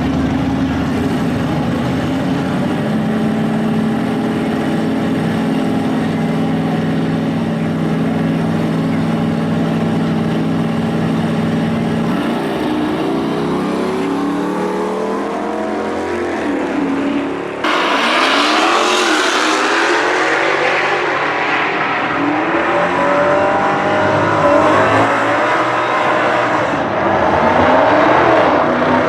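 Drag-racing cars' engines running steadily, then revving and accelerating hard, the pitch rising again and again as they shift through the gears. The engine noise jumps suddenly louder about two thirds of the way through.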